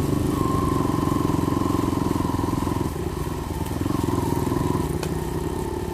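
Small dirt bike engine running at a steady throttle, easing off briefly about three seconds in.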